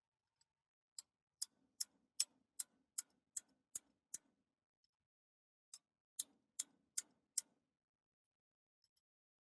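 Sharp taps struck in quick, even runs, about two and a half a second: nine in a row, a short pause, then six more.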